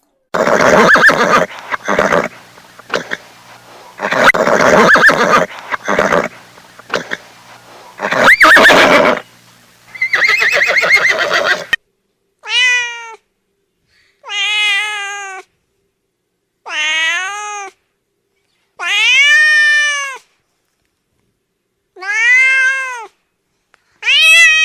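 A cat meowing. First come about twelve seconds of loud, rough, noisy cries, then six clear separate meows of about a second each, each rising and then falling in pitch, with silent gaps between them.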